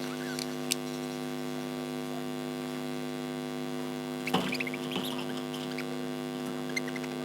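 Steady electrical mains hum, with a few short high chirps from budgies over it, most of them in a cluster with a click about four seconds in.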